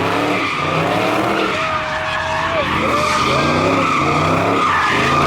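Car drifting: its engine revs up and down over a steady, high tyre squeal.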